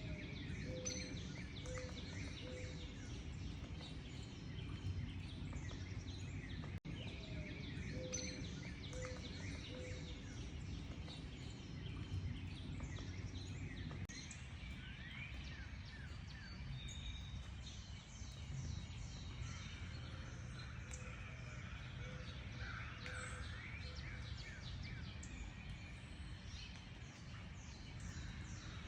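Several birds chirping and trilling at once. A low-pitched bird hoots in short runs of three or four evenly spaced notes, three times. A steady low rumble runs underneath.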